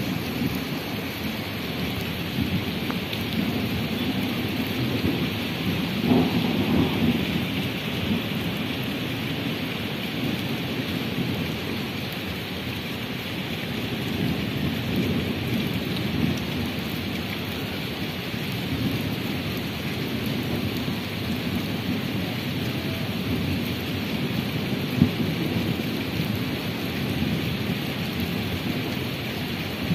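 Steady rain falling on a wet paved street and puddles, an even hiss throughout, with a low rumble swelling about six seconds in and one sharp tap near the end.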